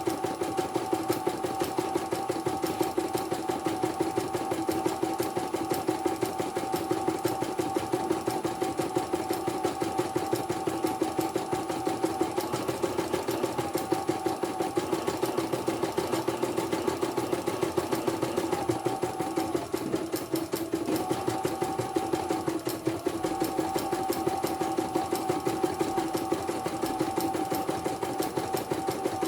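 Portable computerized CNY embroidery machine stitching, with rapid, even needle strokes over a steady motor whine. The motor tone dips briefly a few times in the second half, as the speed changes.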